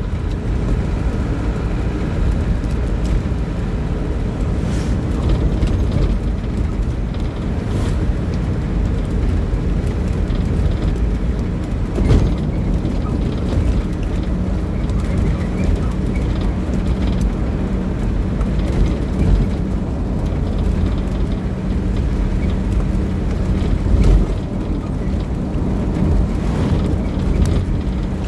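A motor vehicle running steadily, a low rumble with a few short knocks.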